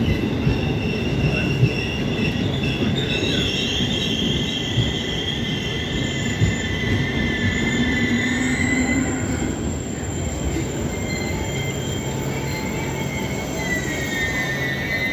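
NS passenger train at a station platform, with high-pitched metallic squealing from the train: several thin, wavering squeal tones over a steady rumble, and a short sliding squeal near the end.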